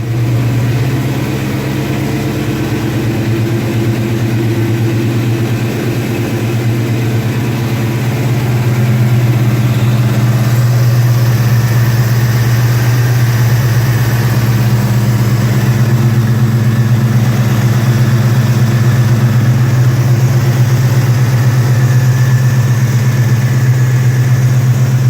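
Saleen Mustang's 5.0-litre V8 idling steadily just over 1,000 rpm on a cold start, with no ticks or knocks. The idle is still raised because the engine has not warmed up.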